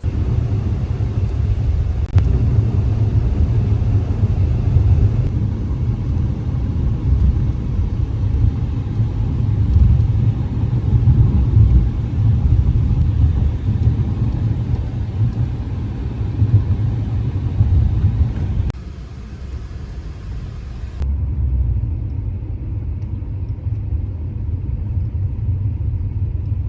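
Low, steady road and engine rumble of a moving car heard from inside the cabin. The noise changes abruptly twice, about two-thirds and four-fifths of the way through.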